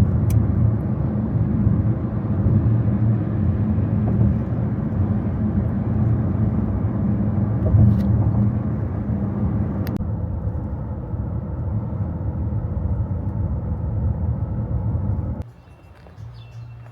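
Motor vehicle running with a steady, loud low engine rumble. It cuts off abruptly about fifteen seconds in.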